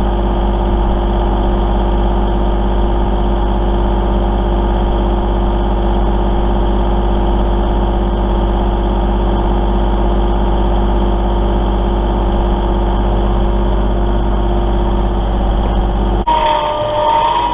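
Kubota L3901 tractor's three-cylinder diesel engine running steadily under work. Near the end the deep rumble drops away and a brief whining tone comes in.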